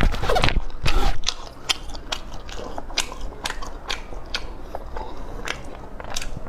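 Close-miked chewing of a mouthful of food, a run of small sharp clicks, loudest in the first second or so and then softer and steadier.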